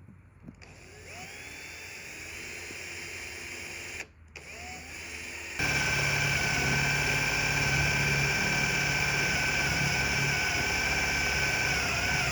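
Small electric motor running with a steady high whine and hum, quieter at first with a brief break near four seconds, then louder and very even from about five and a half seconds in.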